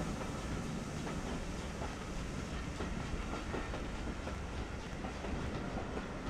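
Railway coaches rolling steadily past, their wheels clicking over the rail joints.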